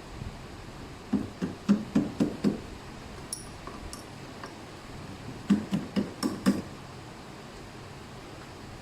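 Two quick runs of sharp knocks, about six in each run at four or five a second, a few seconds apart.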